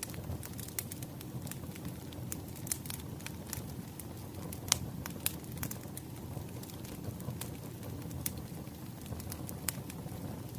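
Wood fire crackling: a steady low hiss of burning logs with irregular sharp pops and snaps, one louder pop near the middle.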